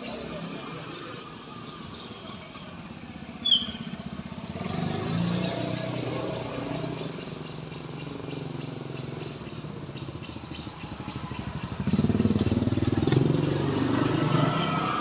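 Motorcycle engines passing on a road: a low, pulsing engine note that swells about five seconds in and louder again near the end. A short, sharp bird chirp comes about three and a half seconds in.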